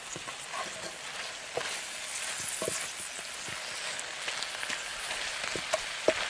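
Yucca flowers frying in a cast iron skillet over coals: a steady sizzle with scattered crackles, and a few knocks of a wooden utensil stirring them in the pan.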